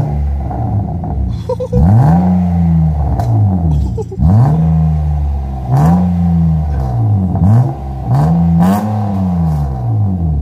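BMW E36 engine with its muffler deleted, revved in place about five times, each rev rising and falling back, with sharp pops and cracks from the exhaust.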